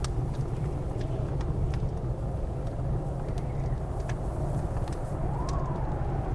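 Wood fire crackling with scattered sharp pops over the steady low rumble of blizzard wind. The wind howls in a faint wavering tone that rises and falls about five seconds in.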